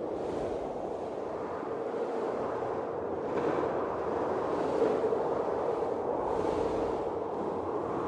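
Blizzard wind blowing as a steady rushing noise that swells in gusts, once about three seconds in and again after six seconds.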